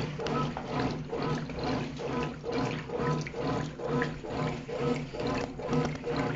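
Brastemp Clean top-loading washing machine agitating: the agitator swishes the wash water back and forth over a motor hum, about two strokes a second.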